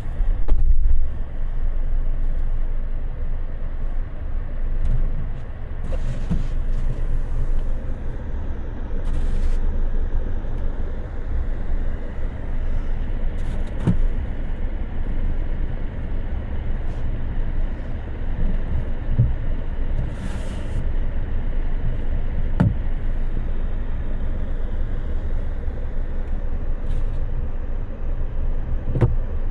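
Off-road 4x4 crawling through deep fresh snow in low-range second gear on snow chains: a steady low engine and drivetrain rumble, with a few sharp knocks from bumps along the way.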